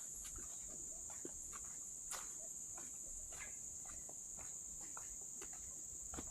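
Steady high-pitched drone of insects such as crickets, with scattered soft footsteps and small knocks on a wet trail.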